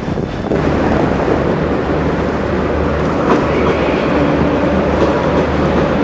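Train running at a railway station: a steady rumble with a low hum, a few sharp clicks about three seconds in.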